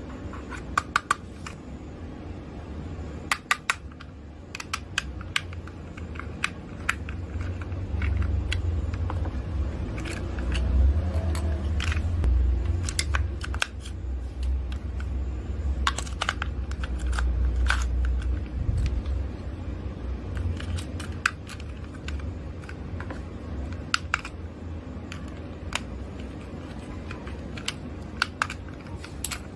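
Scattered sharp clicks and taps of small plastic parts and packaging being handled, with a low rumble from about eight seconds in that fades out a little before twenty seconds.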